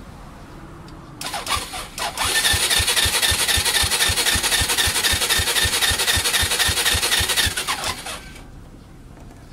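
Honda Fusion MF02 scooter's electric starter cranking its single-cylinder engine: a brief stab, then about five and a half seconds of steady starter whine with even compression thumps about five a second, cutting off abruptly. The engine never catches, a no-start.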